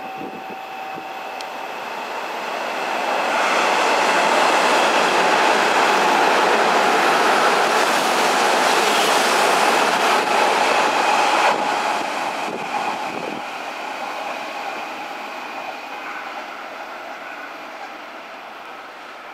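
Electric commuter train running past along the platform. The rail and running noise builds over the first few seconds, stays loud for several seconds as the cars go by, then fades as the train moves away, with a thin high tone running through it.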